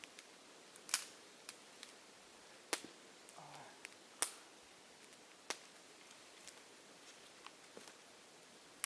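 Campfire burning, the wood crackling with irregular sharp pops, about four louder ones among smaller ticks, over a low steady hiss.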